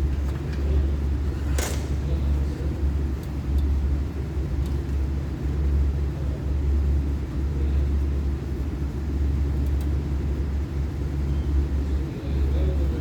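Running machinery giving a steady low hum and rumble, with one sharp click about one and a half seconds in.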